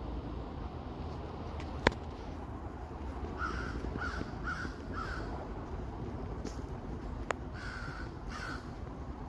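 Crow cawing: a run of four harsh caws, then two more a few seconds later, over a steady low rumble. A sharp click sounds about two seconds in, and a fainter one later.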